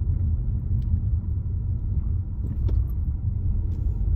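Low, steady rumble of a car on the move, with road and engine noise heard from inside the cabin and a faint click about two and a half seconds in.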